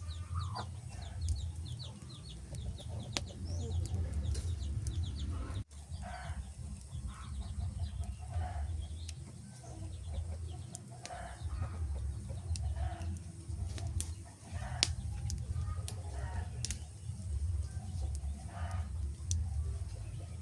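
Wood fire crackling, with scattered sharp pops over a low steady rumble. Short repeated animal calls, much like a hen clucking, come about once a second through it.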